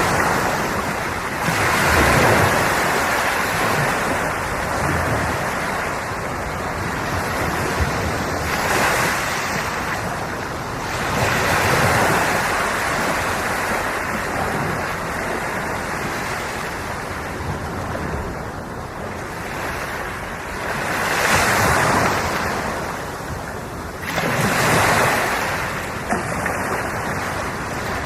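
Ocean waves breaking and washing onto the shore, a steady rush that swells into louder surges every few seconds.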